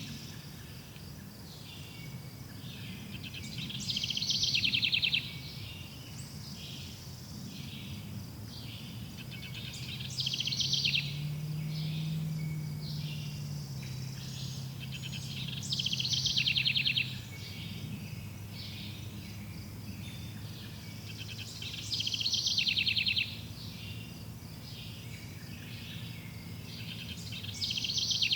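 Forest ambience: a songbird sings a short, fast trilled phrase about every six seconds, five times, over fainter chirping and a low steady hum.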